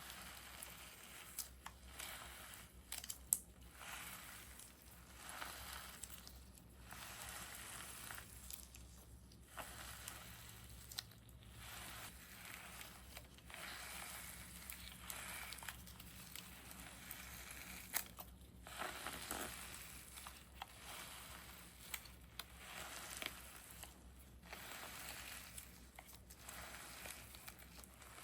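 Handmade squishy being squeezed and pressed again and again by hand, each press a soft crinkling rustle lasting a second or two, with a few sharp clicks among them.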